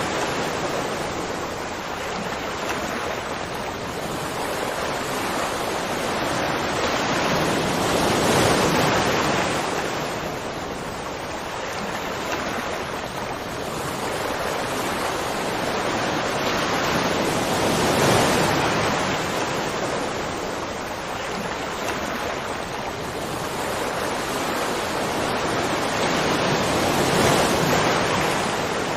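Waterfall: a continuous rush of falling water, swelling and easing gently every few seconds.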